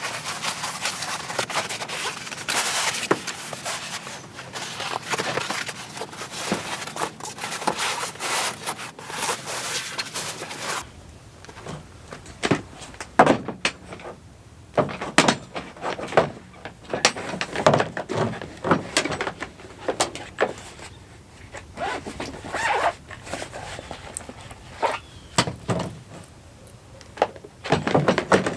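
Dense rustling and crackling handling noise for about ten seconds. It changes abruptly to irregular knocks and thunks of objects being moved and set down.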